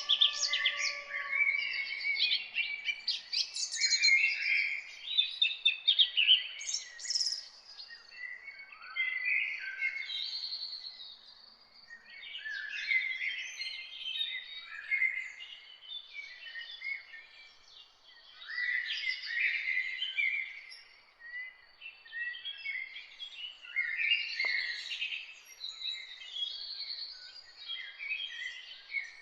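Several songbirds singing and chirping at once: a dense chorus of overlapping high chirps and trills that thins briefly a couple of times, with a faint steady high tone underneath.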